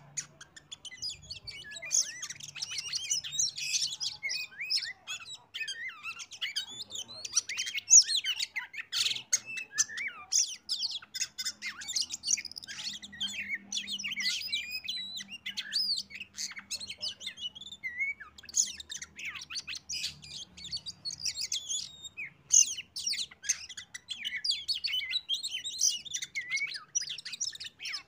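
Oriental magpie-robin (kacer) song: a fast, varied run of high chirps, trills and whistles, with a short pause about two-thirds of the way in. It is a lure song used to set other kacer singing.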